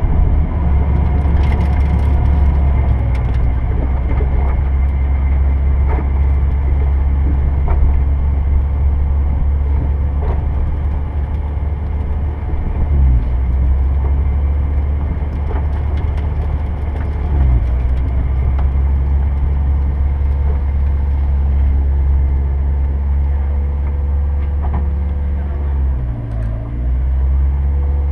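Turbocharged Mazda Miata's four-cylinder engine heard from inside the open-top car, a steady low drone while driving slowly. The engine note dips briefly about 13 and 17 seconds in, and falls and rises again near the end.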